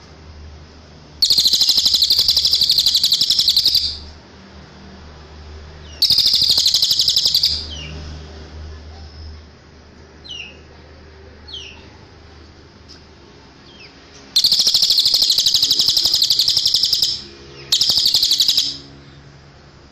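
Cililin songbird singing: four loud, rapid high-pitched trills, each one to three seconds long, with a few faint short chirps in the pauses between them.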